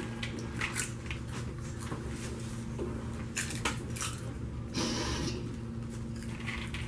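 Several people chewing crunchy caramel-coated popcorn, a run of short irregular crunches, over a steady low hum.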